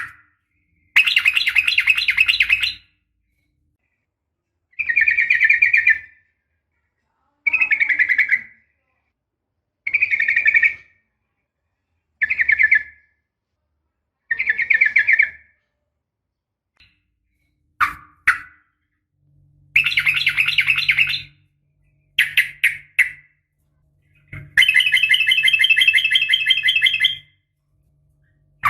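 Yellow-vented bulbul (trucukan) giving bursts of rapid trilling chatter, about ten bursts of one to three seconds each with silence between, the longest near the end. A faint low hum runs under some of the bursts.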